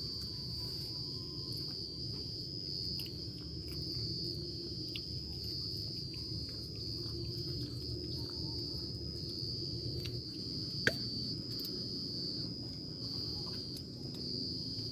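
Insects trilling in one steady, unbroken high-pitched tone over a low steady noise, with a single sharp click about eleven seconds in.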